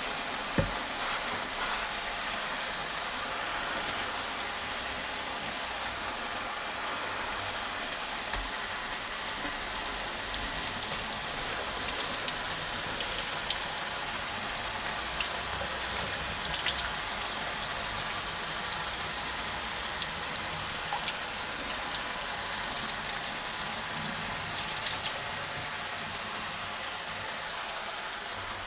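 Food sizzling steadily in a hot frying pan, with scattered crackles and pops of fat and moisture. There is one short knock about half a second in.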